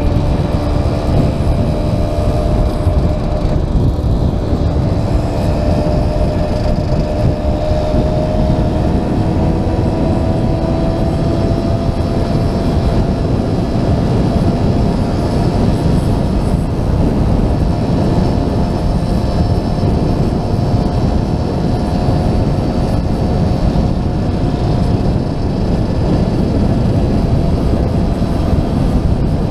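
Classic small motorcycle engine running steadily under way, its note creeping slightly higher in the first dozen seconds, over heavy wind rumble on the helmet-mounted camera.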